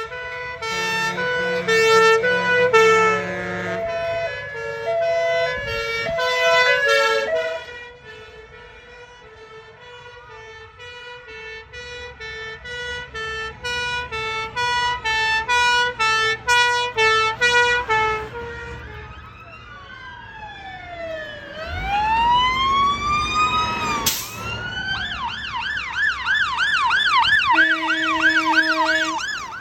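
Fire engine sirens from several appliances passing one after another: stepped two-tone sirens for most of the first eighteen seconds, then rising and falling wails, then a fast yelp, with a short horn blast near the end.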